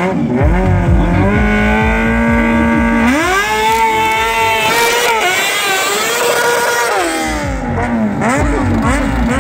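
Sportbike engine revved hard by a stunt rider: held at steady revs, then climbing sharply about three seconds in and held high, dropping back near seven seconds, then rising and falling with throttle blips.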